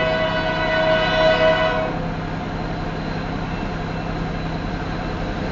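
Union Pacific diesel locomotive's air horn sounding one long chord that cuts off a little under two seconds in, then the steady low rumble of the locomotives running.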